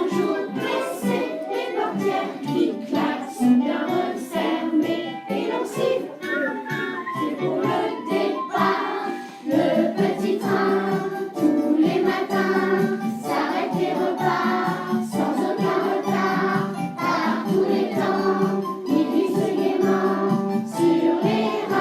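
A group of children singing a song about a little train in unison, with instrumental accompaniment.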